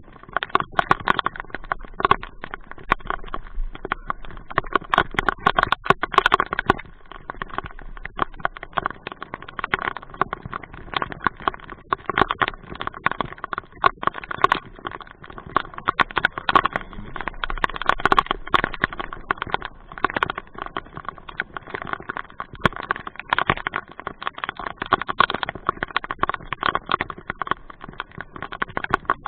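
Rain falling hard, its drops tapping densely and irregularly on a hard surface right by the microphone.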